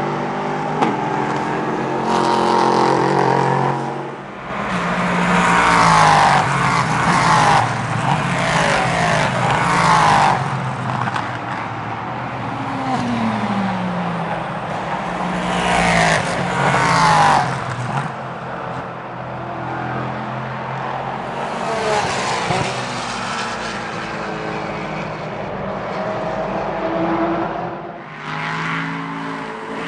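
Several prototype and GT race cars passing at speed, one after another. Their engine notes rise and fall as they go by and change gear.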